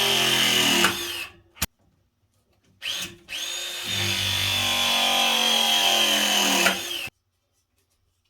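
Power drill running under the trigger. It winds down about a second in, gives a short blip near three seconds, then runs steadily for about four seconds before stopping.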